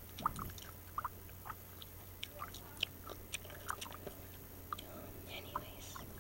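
Gum being chewed close to the microphone, with irregular wet clicks and smacks of the mouth.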